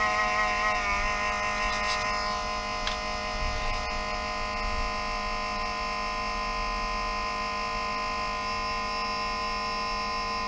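Toshiba REGZA RD-R100 DVD recorder's cooling fan running with a steady whine of several tones, wavering for the first second and then holding steady. The uploader takes this noise for a failed cooling fan.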